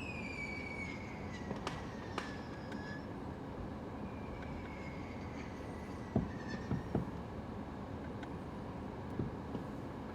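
Fireworks going off: several short bangs, a cluster about six seconds in, and two long whistles that fall slowly in pitch, the first at the start and the second about four seconds in.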